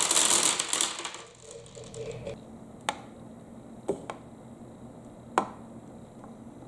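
Marbles rattling down a marble run, the rattle fading out about a second in, followed by a handful of separate sharp clicks as single marbles knock against the track pieces.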